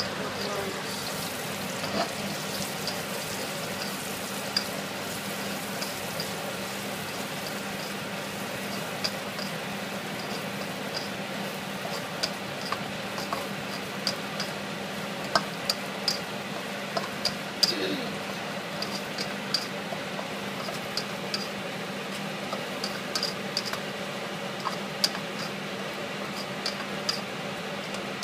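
Chopped garlic sizzling in hot oil in a stainless steel wok, stirred with a spatula that scrapes and taps the metal, with many short sharp clicks scattered through the steady sizzle.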